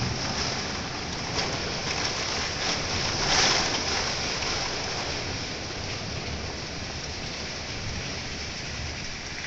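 Heavy thunderstorm rain falling steadily, with a brief louder surge about three seconds in as a gust drives the rain.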